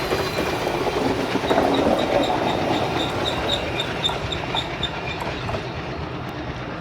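Diesel-hauled passenger train rolling past on the track, wheels running over the rails with a steady clatter that slowly fades after about two seconds as it moves away.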